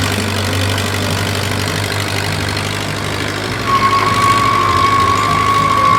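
Vehicle engine sound effect: a steady low engine hum. About three and a half seconds in, a steady high whine joins it.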